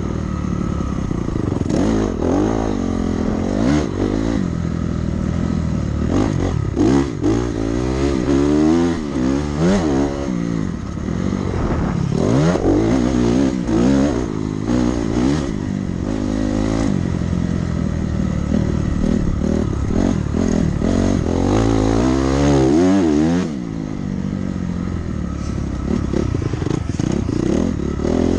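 Dirt bike engine revving hard and easing off again and again as it is ridden around a motocross track, its pitch climbing and falling every second or two. There is a short letup near the end.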